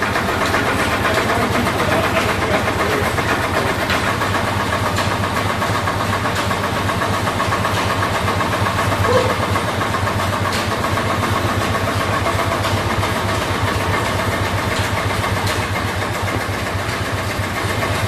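Old stationary engines running steadily together, with a fast even beat of firing strokes under a mechanical clatter.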